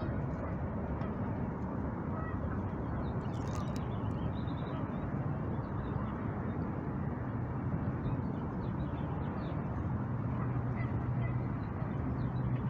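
Steady city park ambience: a low, even rumble of urban background noise with waterfowl calling now and then.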